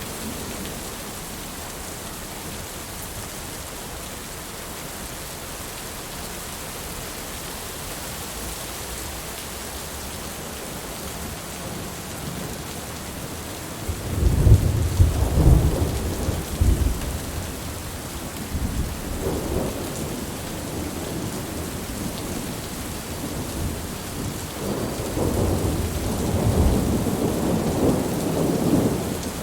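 Steady rain with thunder: about halfway through, a loud low rolling rumble starts suddenly and lasts a few seconds, followed by a fainter rumble and then a longer one near the end.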